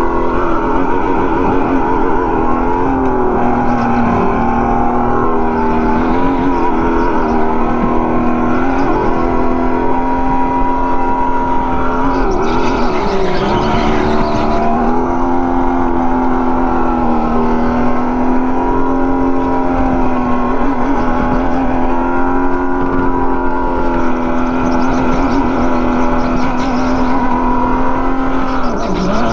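Go-kart motor running steadily at speed, its pitch dipping and climbing again about twelve seconds in and once more near the end as the kart slows for corners and picks up.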